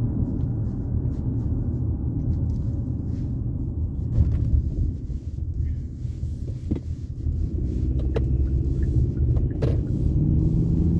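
Car driving, heard from inside the cabin: steady low road and engine rumble, with a few light clicks and a steady engine hum coming in over the second half.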